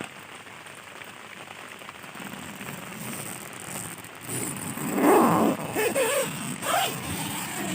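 Heavy rain falling on a dome tent, a steady hiss. About four seconds in, a louder, uneven sound rises over the rain and runs for about four seconds.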